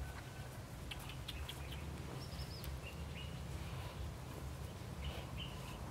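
Outdoor ambience: a few short, high bird chirps over a steady low rumble, with scattered faint clicks.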